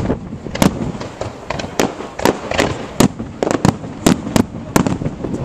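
Display fireworks going off: a rapid, irregular run of sharp bangs, about two a second, over a continuous crackle.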